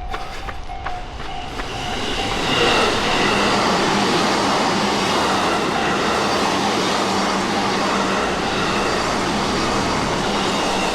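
A train passing close by, its running noise building about two seconds in and then holding loud and steady. Running footsteps are heard at the start.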